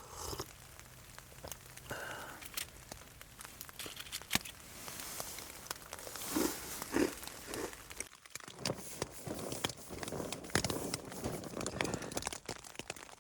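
Crinkling and rustling with many small sharp clicks and a few soft knocks, from something being handled close to the microphone.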